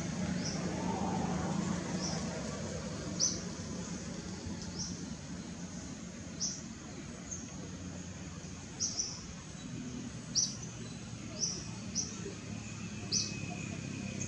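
A small bird chirping: short, sharp high chirps repeating irregularly every second or two, about a dozen in all, over a steady low outdoor background rumble.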